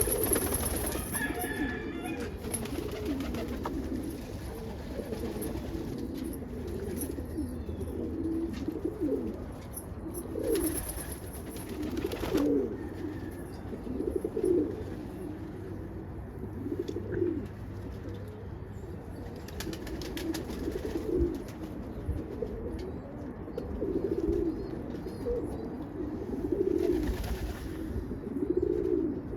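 Domestic roller pigeons cooing over and over, low rolling coos coming every second or two, with a couple of sharp taps near the middle.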